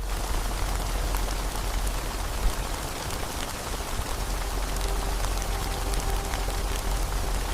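Steady hiss of heavy rain, cutting in abruptly at the start and easing off right at the end.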